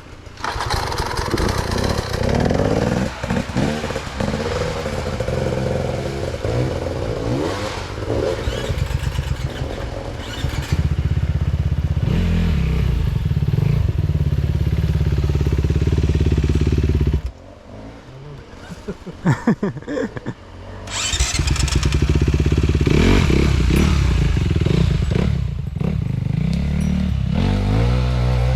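Enduro dirt bike engine revving and labouring on and off the throttle over rough ground, with the clatter of the bike. About two-thirds through, the engine note falls away for a few seconds, broken by a few sharp knocks, then pulls hard again.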